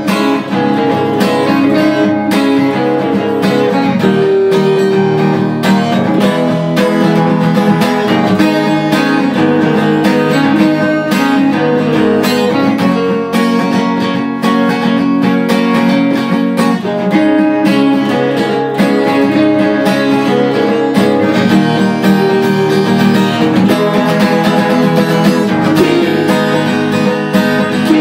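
Acoustic guitar strummed steadily, a run of chords played as an instrumental with no singing.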